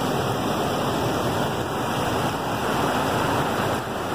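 Waterfall pouring and splashing close by: a steady, loud rush of falling water.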